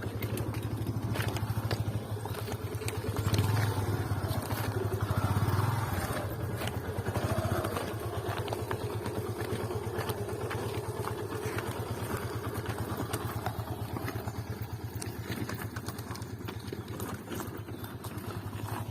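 Motorcycle engine running steadily during a ride, its low drone swelling louder twice in the first six seconds, with light rattles over it.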